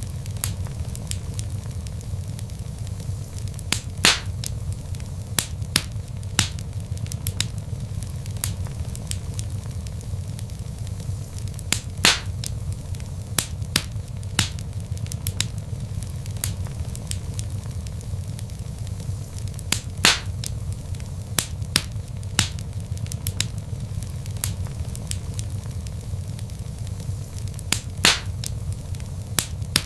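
Wood fire in a fireplace, logs crackling with scattered sharp pops over a steady low rumble of the flames; a few louder pops stand out every several seconds.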